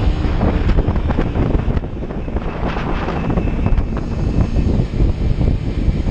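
Kawasaki Ninja 300's parallel-twin engine running while riding, mixed with heavy wind noise on the microphone.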